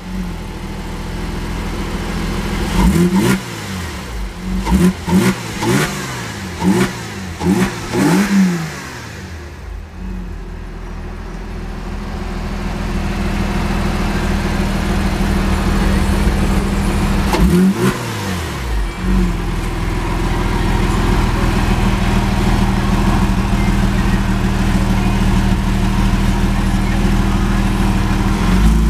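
Porsche Boxster S (986) 3.2-litre flat-six with a sport exhaust, parked and blipped: a quick run of throttle revs in the first nine seconds and two more about two-thirds of the way in, each rising and falling straight back, with a steady idle between them and through the last third.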